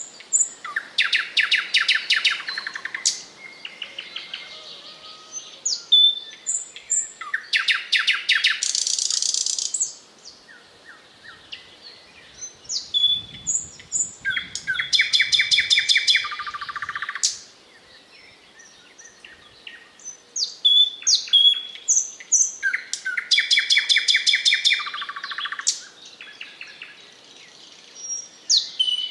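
Thrush nightingale (Eastern nightingale) singing: phrases of a few seconds of fast repeated notes and rattling trills, set apart by short pauses and single clear, high whistles.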